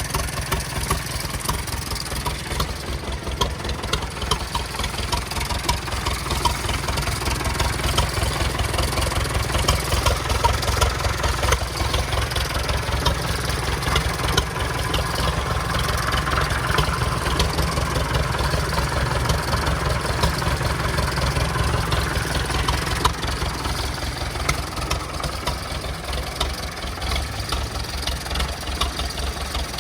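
A414 tractor engine idling steadily, with an even, fast low-pitched beat.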